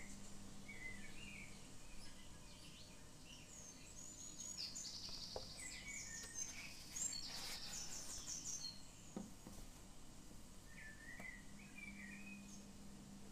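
Small birds chirping and twittering, with two fast, high trills about midway, over a faint steady low hum.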